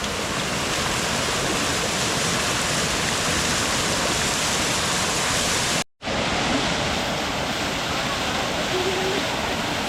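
Small waterfall rushing and splashing steadily, with a brief silent gap a little past halfway.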